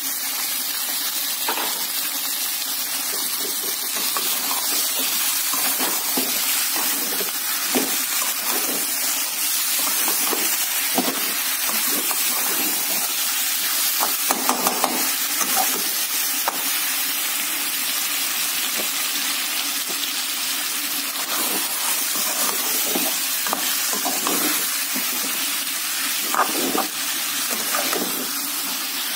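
Chopped tomatoes and chicken sizzling in hot oil in a steel pan, with a steady frying hiss. A metal spatula scrapes and knocks against the pan from time to time as the mixture is stirred.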